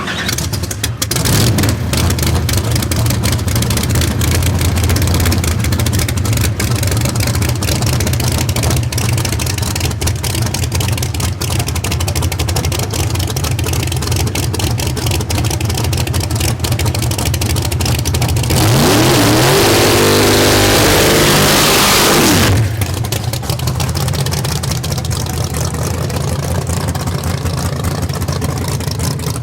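Fulton 706 all-aluminium big-block V8 in a drag car running with a steady low rumble, then going to full throttle for about four seconds, pitch climbing and loud enough to overload the recording, before settling back.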